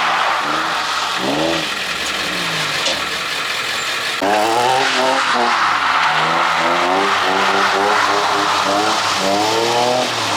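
Car engine revving hard while drifting, the revs climbing and dropping again and again, louder from about four seconds in.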